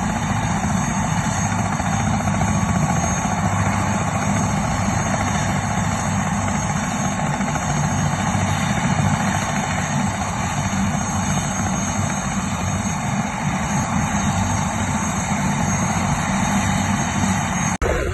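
Medical helicopter's rotor and turbine running loud and steady, with a deep rotor throb beneath a broad engine whine; the sound drops out for an instant just before the end.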